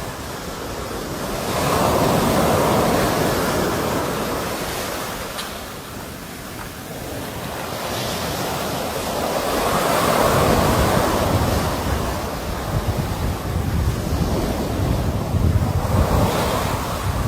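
Sea waves breaking and washing up, the surf swelling and ebbing in three slow surges about seven seconds apart. Wind buffets the microphone in gusts near the end.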